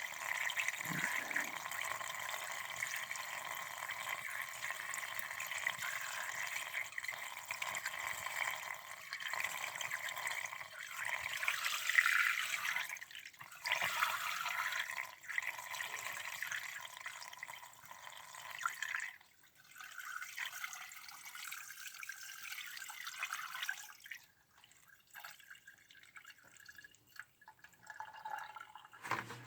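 Coolant being poured into a truck's radiator: a steady, uneven pour of liquid that thins out and stops about three-quarters of the way through, leaving only faint scattered sounds.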